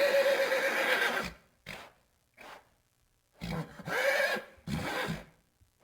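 An animal calling: one long pitched call that ends about a second in, two faint short sounds, then two shorter calls that fall in pitch.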